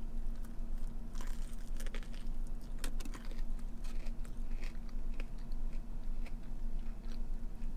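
A person biting into a crispy fried chicken sandwich and chewing it close to the microphone, with many small crunches and wet mouth clicks.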